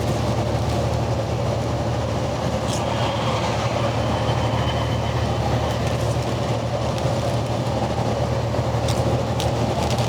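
Steady in-cab drone of a semi truck cruising on the highway: engine and road noise with a constant low hum and a held mid tone. A few light clicks come near the end.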